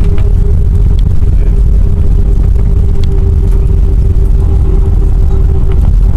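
Cabin noise of an Airbus A320 rolling on the ground after landing: a loud, steady low rumble from the wheels and engines, with a steady hum over it.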